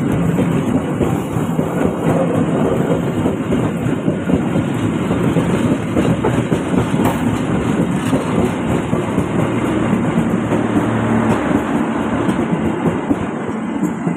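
A train's cars rolling past at close range, wheels clattering steadily over the rails.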